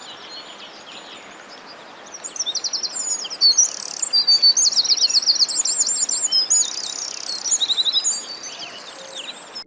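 Songbirds singing: fast trills and short whistled chirps over a steady outdoor hiss. The song grows busier about two seconds in and thins out near the end.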